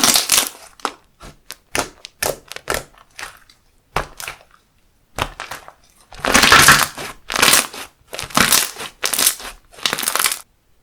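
Handmade slime being pressed and squished by hand, a series of short noisy squishes with the longest about six seconds in.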